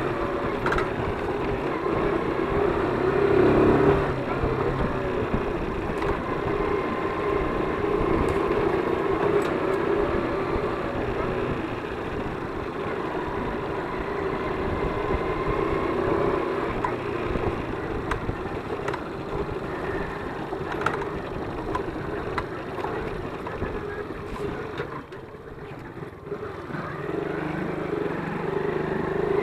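ZiD 50-01 moped engine running under way, its note wavering with the throttle. It drops off briefly near the end, then picks up again.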